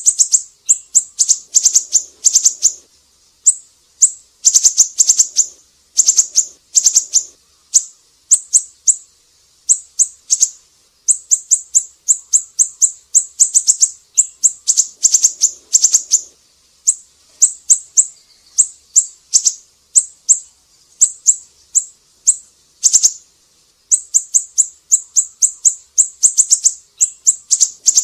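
Siri-siri bird singing: rapid trains of short, high, sharp chirps in bursts of a second or two, one burst after another with only brief pauses.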